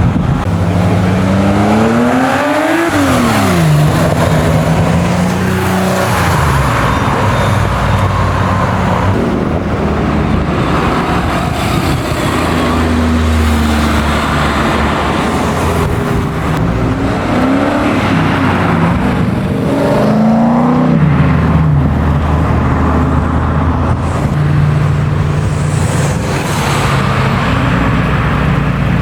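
Classic car engines running loudly, revving up in rising pitch and dropping back sharply about three seconds in and again around twenty seconds in, with a steady engine drone between.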